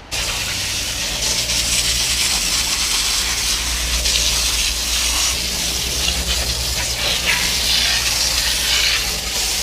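Steady loud rushing hiss, like wind buffeting an action camera's microphone, with a low steady hum beneath it; it cuts in abruptly.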